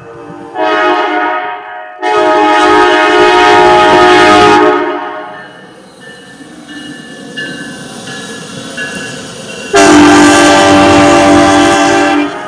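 Locomotive air horn blowing a grade-crossing sequence: a short blast, a long blast, then after a few seconds of softer sounding, another long loud blast that stops just before the end.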